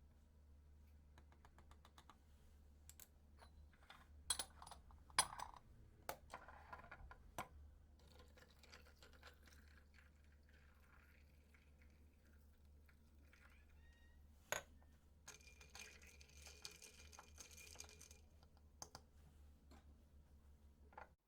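Quiet, scattered clicks and taps of small objects being handled. A cluster of sharper ones comes around four to seven seconds in and a single one about two-thirds through, followed by a few seconds of soft rustling hiss.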